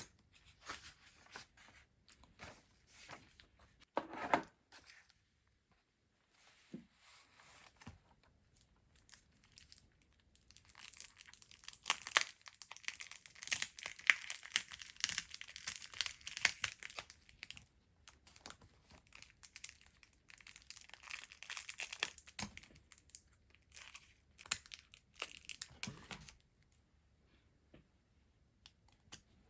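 Product packaging being torn open and crinkled by hand: scattered crinkles and rustles, then a long stretch of dense crackling tearing about ten seconds in, and a shorter one about twenty seconds in.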